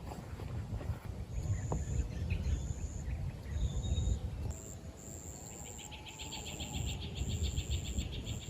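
Insects calling in woodland: a high, thin buzz that comes in repeated bursts, joined about halfway through by a fast pulsing trill, over a steady low rumble.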